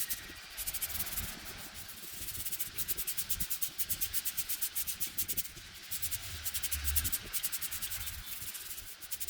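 Rapid back-and-forth rubbing strokes on a hard surface, like brisk scrubbing, at about eight to ten strokes a second, with a few short pauses.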